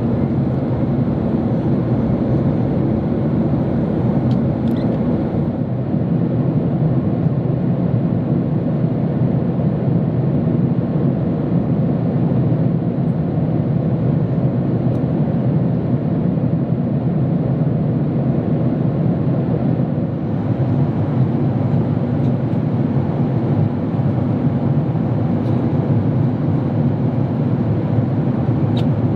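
Steady cabin roar inside the economy cabin of a Boeing 767-300 in flight: engine and airflow noise holding level, dipping slightly about two-thirds of the way in.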